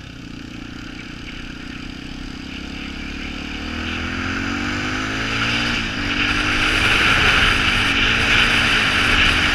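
Yamaha TT-R250 dirt bike's single-cylinder four-stroke engine pulling along a trail, its pitch rising as it speeds up and getting louder through the second half, with a short dip about six seconds in.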